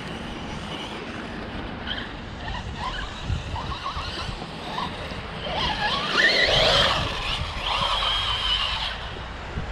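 Electric RC car's motor whining as it is driven, its pitch rising and falling, loudest about six seconds in, over a low rumbling noise.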